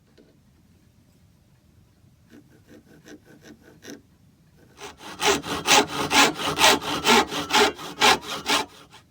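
Hand saw cutting a small piece of mahogany in quick back-and-forth strokes, about four a second: a few light strokes to start the cut, then louder, steady strokes from about five seconds in.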